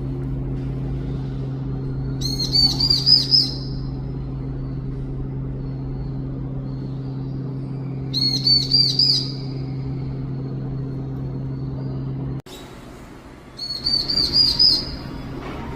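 Long-tailed tit fledgling giving plaintive begging calls, a lost chick calling for its parent: three bursts of quick, high, rising chirps a few seconds apart. A steady low hum runs underneath and cuts off suddenly near the end.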